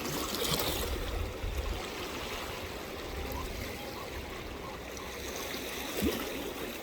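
Steady rush and trickle of moving seawater around rocks, with one short knock about six seconds in.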